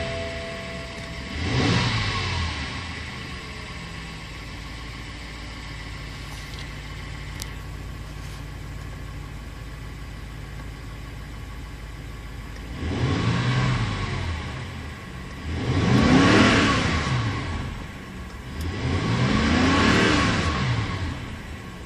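BMW 550i xDrive's 4.4-litre twin-turbo V8 idling in park and given four free revs, heard from inside the cabin. One rev comes about two seconds in, then steady idle, then three rising-and-falling revs close together in the last third, the last one reaching near 5,000 rpm.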